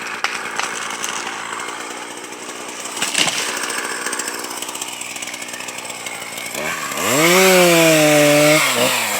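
Machinery runs steadily, then about six and a half seconds in a chain saw revs up with a rising pitch, runs at full speed for about two seconds as it cuts through wood, and winds down near the end.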